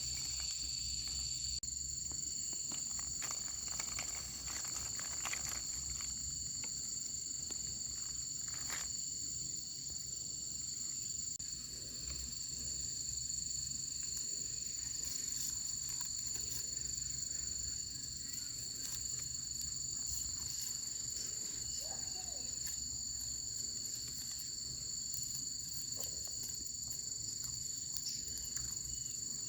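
Steady chorus of insects such as crickets or cicadas, a continuous high buzz at two even pitches, over a low background rumble with a few scattered small clicks.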